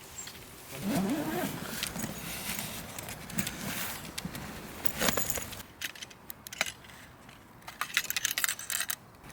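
Light clicks and rattles of objects being handled, with a brief pitched sound about a second in and a quick run of clicks near the end.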